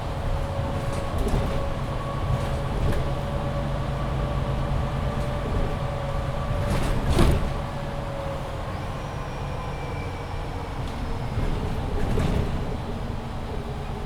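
MAN Lion's City 19C NG360 EfficientHybrid articulated bus running, heard from inside: a steady low drivetrain rumble and a whine that fades away about eight seconds in. A sharp knock comes about seven seconds in.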